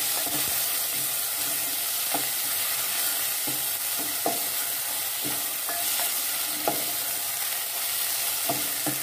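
Chopped tomatoes, onions, ginger and green chillies sizzling in hot oil in a metal pot, stirred with a wooden spoon that scrapes and knocks against the pot about once a second.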